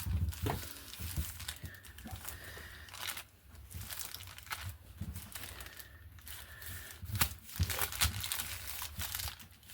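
Paper crinkling and rustling as it is handled, with scattered irregular light taps and rubs.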